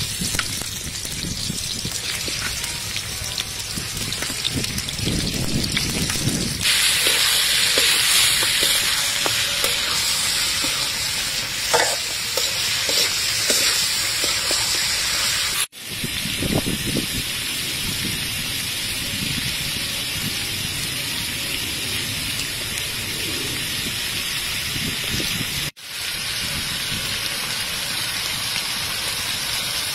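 Chicken wings frying in hot oil in a wok with sliced onion and garlic: a steady sizzle, growing louder about seven seconds in, with a metal spatula scraping and stirring the pieces. The sizzle cuts out for an instant twice.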